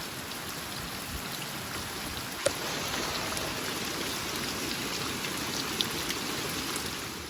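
Steady rain falling, with a couple of sharper drops striking distinctly, one about two and a half seconds in and another near six seconds.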